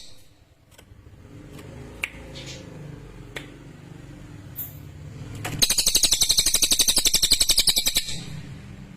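Cililin bird singing: a few faint short chirps, then about five and a half seconds in a loud, fast, rattling high-pitched trill lasting about two and a half seconds, over a low steady hum.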